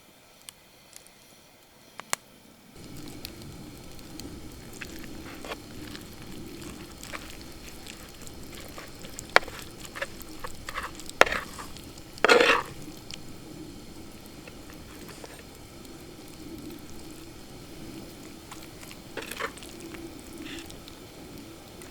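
Food starts sizzling in a hot pan about three seconds in and keeps up a steady frying hiss, with a few light clicks and one louder short clatter about halfway.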